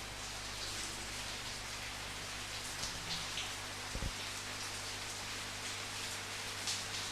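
Steady rain falling, with individual drops pattering close by and one low thump about four seconds in.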